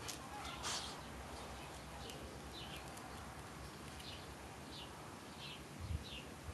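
Faint small-bird chirping: a short falling chirp repeated about every half second, with a soft low knock near the end.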